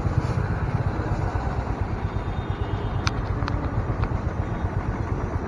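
Honda H'ness CB350's single-cylinder engine running as the motorcycle is ridden in traffic, a steady low rumble with wind on the microphone. Three short ticks come about three to four seconds in.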